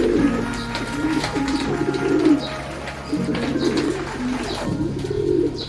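Racing pigeons cooing: several low, throaty coos in a row, about one every second.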